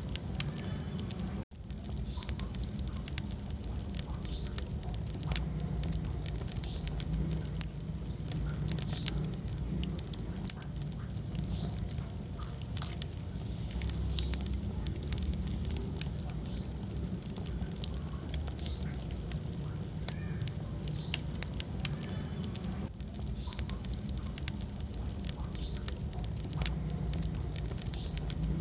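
Wood fire burning in a fireplace, crackling with frequent sharp pops over a low, steady rumble of the flames. The sound cuts out for an instant about a second and a half in.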